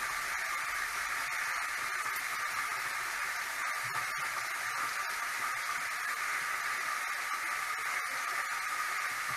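Chicken frying in hot oil in a pan on the stove: a steady sizzling hiss.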